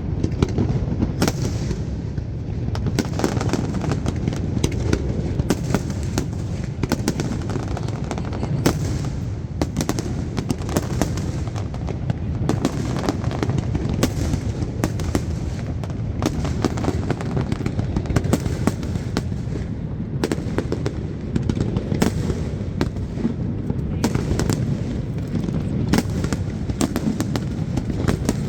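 Fireworks going off without pause: many sharp bangs and crackles in quick succession over a steady low rumble.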